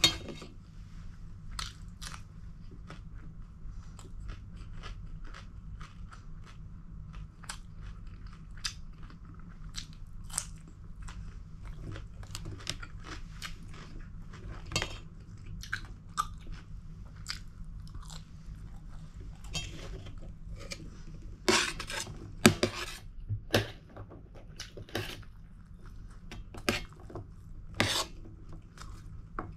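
A person chewing and crunching food, with many short sharp crunches and a louder run of them about two-thirds of the way through.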